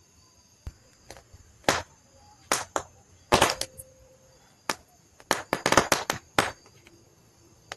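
Campfire crackling and popping: a scatter of sharp, separate cracks over a quiet background, coming thick and fast for a moment about five seconds in.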